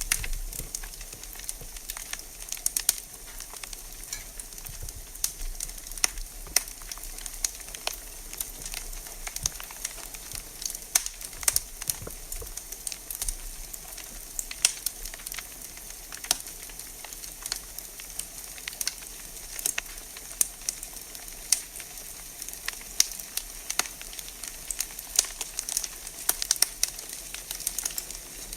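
Wood fire in a fireplace crackling, with irregular sharp pops and snaps over a steady hiss.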